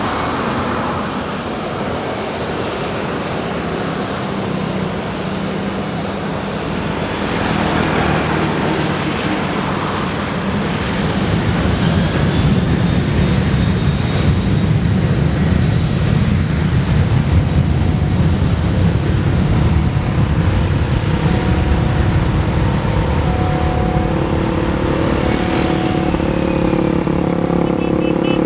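Boeing 737 jet engines running. About ten seconds in, a high whine rises in pitch as the engines spool up, and after it comes a louder, steady low rumble.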